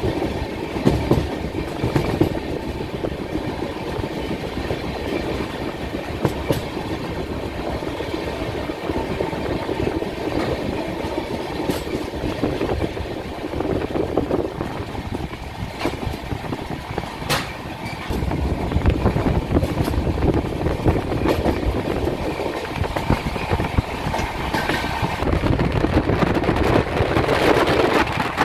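Train running on its rails, heard from aboard: a steady rumble of wheels with a few sharp clacks over rail joints, a few seconds apart, growing louder in the last ten seconds.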